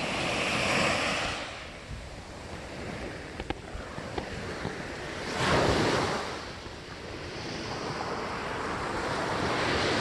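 Sea waves washing ashore in slow swells, with the loudest wave breaking about halfway through and another building near the end.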